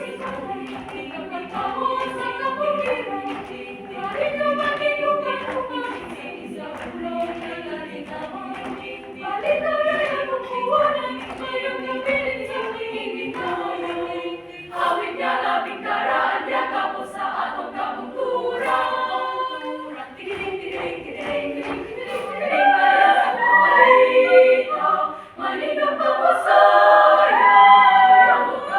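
A choir singing in harmony, voices only, swelling louder in the last few seconds.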